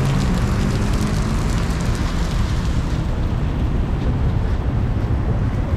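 Heavy rain pouring steadily, mixed with the low rumble of street traffic.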